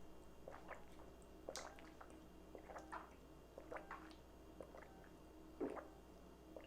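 Faint, close-up mouth sounds of eating: wet chewing and lip smacks in scattered short clicks, with one louder smack near the end.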